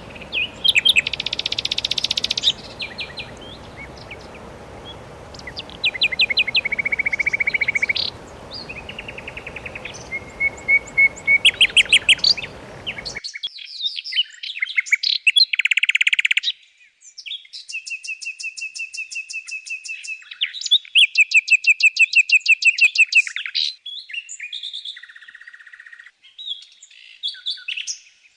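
Songbirds singing: a run of varied high phrases of fast repeated notes, trills and short whistles. A low background hiss under the song cuts out abruptly about halfway through.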